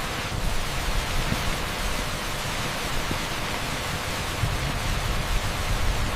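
Torrential rain pouring onto an asphalt street: a dense, steady hiss with a low, uneven rumble underneath.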